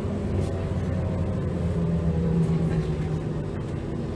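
Heuliez GX327 GNV city bus's natural-gas engine running under way, a steady low drone that swells slightly about halfway through and then eases off.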